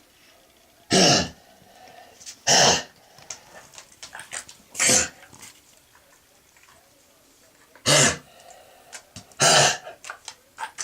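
A dog coughing in a fit: five loud, harsh coughs one to three seconds apart. It is a chronic, recurring cough that sounds like kennel cough.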